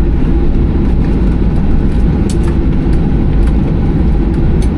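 Steady low rumble inside the cabin of a Boeing 737-800 taxiing after landing: engine and rolling noise heard from a window seat, with a couple of faint clicks.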